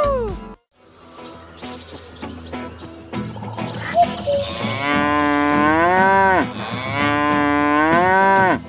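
A cow mooing twice, two long calls that rise, hold and fall away. A steady high-pitched buzz runs under the first half and stops just before the second moo.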